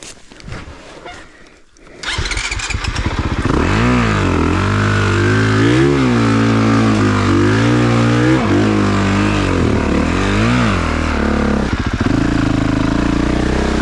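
2022 Honda CRF450RX dirt bike's single-cylinder four-stroke engine starts about two seconds in, then revs up and down repeatedly while the bike works through deep mud, settling to a steadier note near the end.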